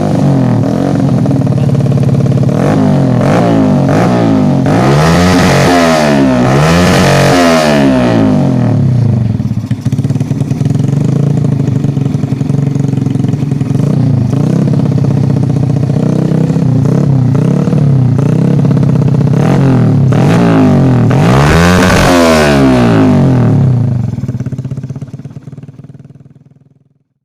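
A 110 cc underbone motorcycle's single-cylinder four-stroke engine running through an aftermarket Proliner racing exhaust. It idles and is revved up and down in quick blips, in a run of several about 3 to 8 seconds in and again about 20 to 23 seconds in. The sound fades away near the end.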